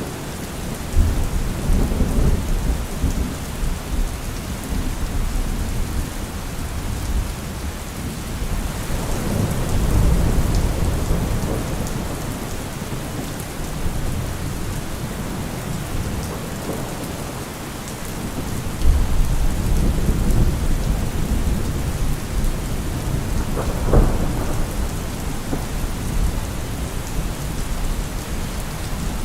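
Steady rain falling through a thunderstorm, with low rolls of thunder swelling and fading three times and one sharper thunder crack late on.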